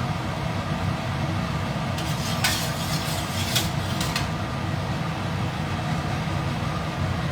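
Steady low rumble of kitchen equipment running, with a few short clattering or scraping noises about two to four seconds in.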